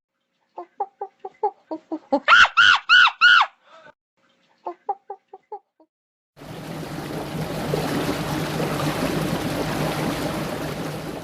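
Chicken clucking in quick short runs, with four loud squawks about two to three seconds in. After that comes a steady hiss with a low hum.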